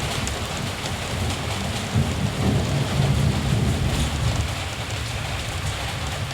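Steady rain falling, with a low rumble of distant thunder that swells about two seconds in and fades a couple of seconds later.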